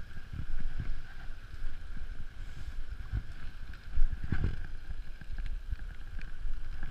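Wind buffeting the microphone during a fast downhill mountain-bike ride, a gusty rumble with a steady high hum running underneath. A sharp knock about four seconds in, typical of the bike going over a bump.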